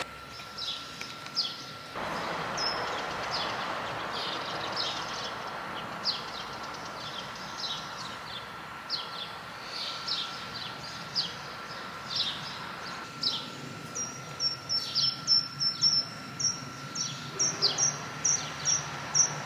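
Birds chirping in a garden: short falling chirps repeated every second or so, joined in the last few seconds by a quicker run of high, thin notes.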